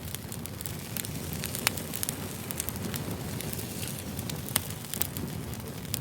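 Campfire burning with a steady low rush and frequent sharp crackles and pops from the wood, one of the loudest pops coming about one and a half seconds in.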